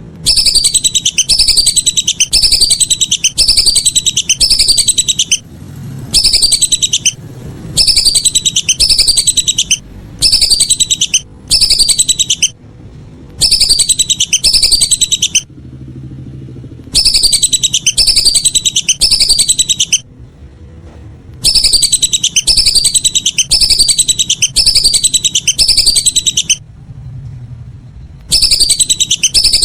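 Lesser whistling ducks (belibis) calling: loud, high whistled notes that fall in pitch, about two a second, in runs of one to five seconds with short pauses between them.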